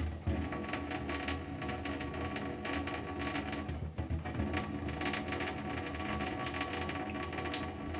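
Tap water running, broken by many quick irregular clicks and splashes as a cat laps at the stream.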